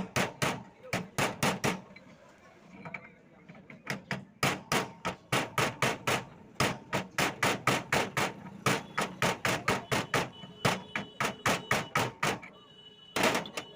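Hammer blows on a motorcycle rear shock absorber being repaired, in quick runs of about three to four strikes a second, with a break of about two seconds after the first run. Near the end a short, louder rasping noise.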